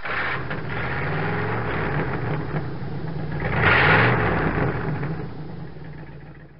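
A car engine running with a deep rumble. It swells loudest about three and a half seconds in, then fades away toward the end.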